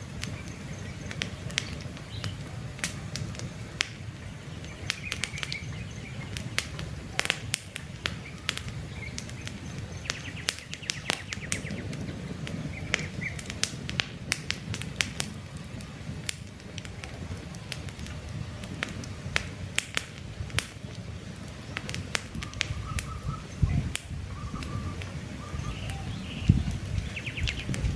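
Wood campfire burning with a low steady rush and frequent sharp crackles and pops. Birds chirp now and then in the background, with brief calls about a third of the way in, in the middle and near the end.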